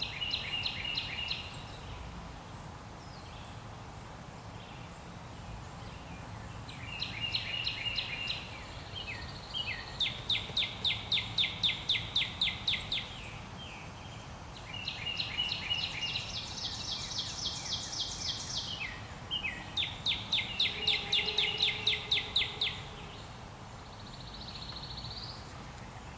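Wild birds singing: several phrases of fast, evenly repeated chirping notes, each lasting a few seconds, with the loudest runs about ten seconds in and again near twenty seconds, over a steady low background rumble.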